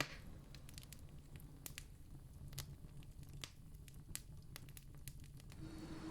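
Campfire crackling faintly, with irregular sharp pops over a low steady hum and one louder pop at the start. Near the end a steady low tone and a rising rush of noise come in.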